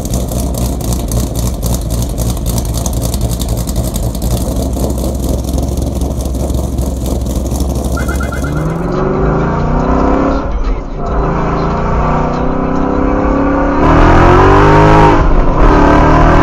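2015 Mustang GT's 5.0 V8 through a Corsa Sport catback with the cats deleted, running a cam-lope tune. It idles with a choppy, pulsing exhaust, then revs up in several rising pulls with short drops between, loudest near the end.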